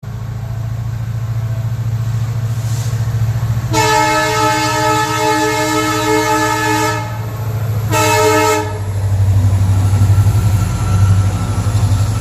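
WDP4B diesel locomotive's two-stroke engine running with a steady low throb, and its horn sounding twice: a long blast about four seconds in, then a short one about eight seconds in.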